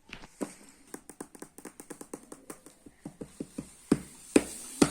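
Irregular light taps and clicks, several a second, with a few louder knocks near the end, as of hands handling small objects.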